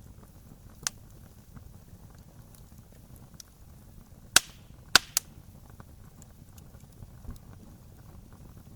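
Wood campfire burning with a low steady crackle, broken by sharp pops of splitting wood: one about a second in, then a cluster of three loud cracks around the middle.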